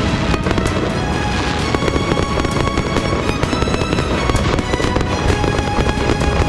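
Aerial fireworks and firecrackers going off in a dense, unbroken barrage of overlapping cracks and pops, with steady tones running through it.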